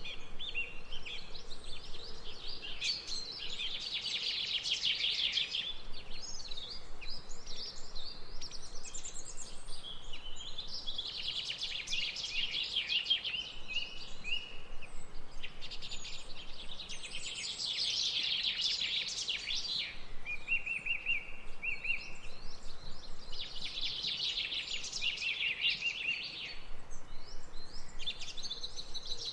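Birdsong: long phrases of rapid chirps and warbles, repeated every five to seven seconds, with a short trill between two of them, over a faint steady background hush.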